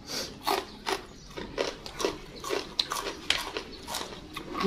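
Close-miked eating: two people biting and chewing crisp raw vegetables, an irregular run of wet crunches a few times a second.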